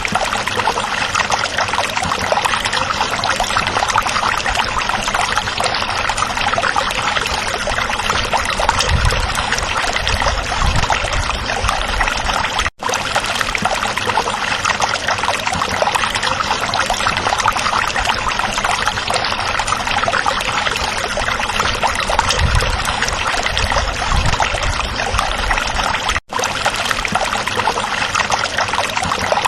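A stream babbling and trickling steadily, with a few deeper gurgles. The sound cuts out for an instant twice.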